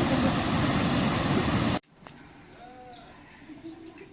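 Loud rushing noise that cuts off abruptly a little under two seconds in, followed by quiet with one faint, short animal call.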